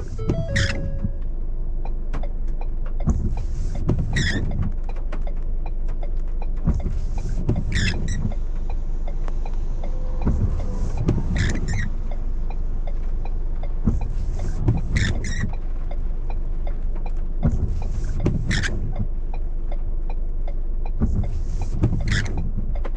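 Car cabin noise while driving: a steady low rumble of engine and road, with a short high squeak that comes back about every three and a half seconds.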